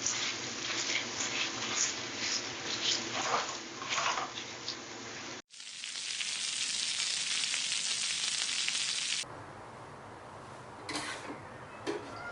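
Food sizzling and frying in a hot pan, with light clinks and clicks. About five seconds in it cuts to a louder, even sizzle, then to a quieter one with a few knocks near the end.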